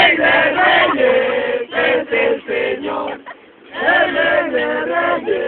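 A crowd of voices chanting loudly together in a call-and-response chorus. About three seconds in they break off briefly, then start again.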